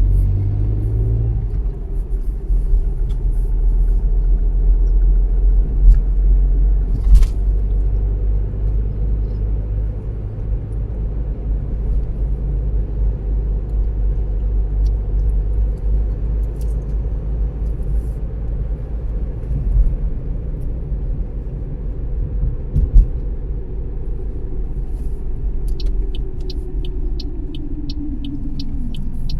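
Car driving, with a steady low road rumble. Near the end a hum falls in pitch and a regular ticking of about two to three ticks a second sets in.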